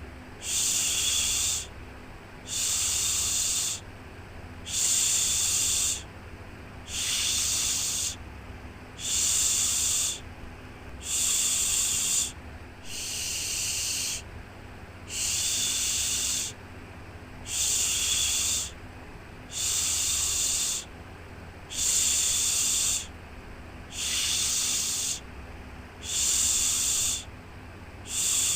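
Rhythmic shushing, a long hissing 'shhh' about a second long repeated roughly every two seconds, of the kind used to soothe a baby to sleep. A faint steady low rumble runs underneath.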